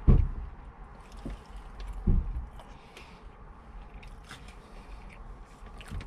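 Close-up chewing and biting of a White Castle slider, with soft wet mouth sounds and faint clicks. Two brief low thumps are heard, one at the start and one about two seconds in.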